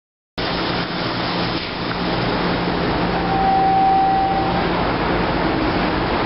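MBTA commuter rail train passing the platform: a steady, loud rush of wheels on rail and moving air that cuts in abruptly just after the start, with a low steady hum under it and a brief thin whine about three seconds in.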